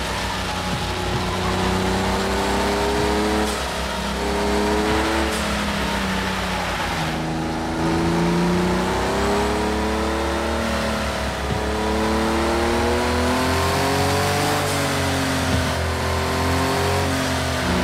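Sports car engine pulling hard through the gears. The pitch climbs and drops back at each shift and lift-off, over tyre and wind noise.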